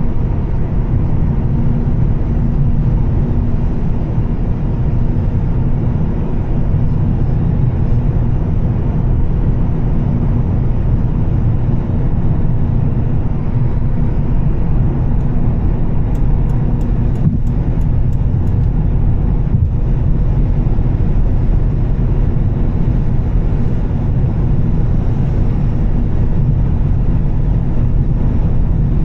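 Volvo S60 T6's turbocharged straight-six and tyres running steadily while cruising, a constant low drone with a steady hum. About halfway through come a quick run of light ticks and a soft knock.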